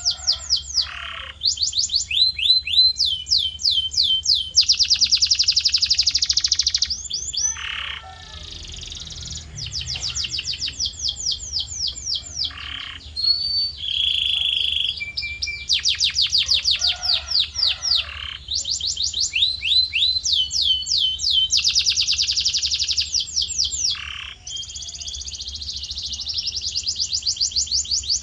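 Male canary in full song: fast, high trills of rapidly repeated descending notes, phrase after phrase with short breaks, and a brief steady whistled note about halfway through.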